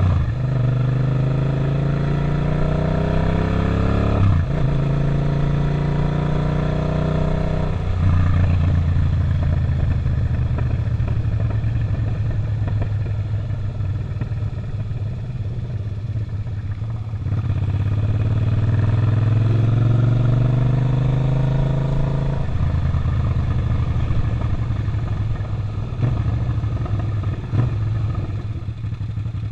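Suzuki SV650's 645 cc V-twin engine under way, pulling up through the gears. The revs climb and fall away with upshifts about four and eight seconds in. The engine then runs steadily for a stretch, climbs again, and shifts once more about twenty-two seconds in.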